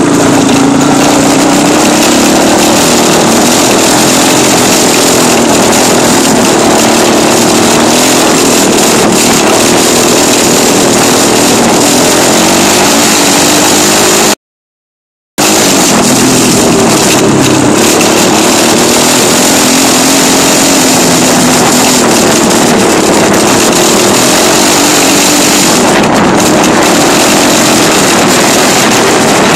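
Dirt bike engine running loud, its pitch rising and falling as the throttle is worked. The sound cuts out completely for about a second halfway through.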